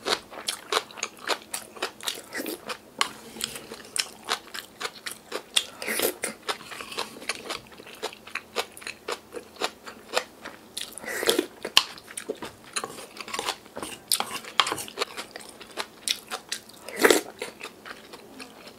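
Close-up chewing of crunchy yeolmu (young radish) kimchi bibimbap: rapid crisp crunches, several a second, with a few louder, longer ones spread through.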